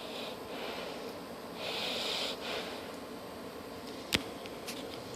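Several audible breaths close to the microphone, a soft puff of air each, the strongest about two seconds in, followed by a single sharp click a little after four seconds.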